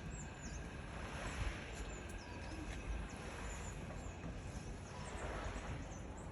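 Outdoor ambience of small birds chirping, many short high chirps scattered throughout, over a steady low rumble.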